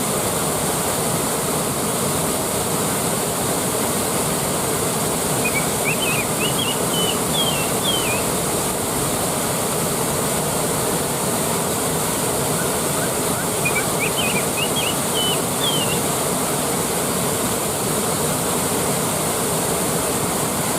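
Waterfall rushing in a steady, even roar. A short series of high chirping notes, typical of a bird, cuts through twice, about six and fourteen seconds in.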